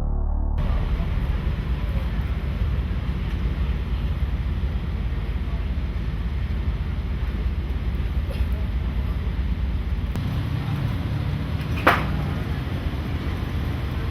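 Drag-race engine idling with a steady low rumble, with a single sharp crack near the end.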